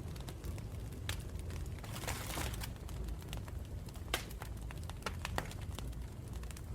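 Wood campfire crackling, with sharp pops and snaps at irregular intervals over a steady low rumble of the flames. A brief hiss swells up about two seconds in.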